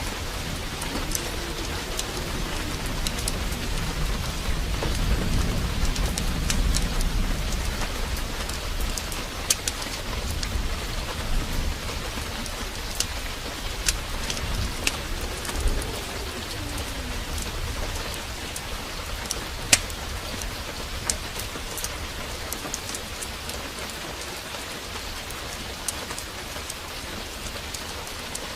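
Heavy rain pouring steadily, with a low rumble of thunder swelling and fading in the first third. Sharp scattered pops and crackles of a fireplace fire sound over the rain.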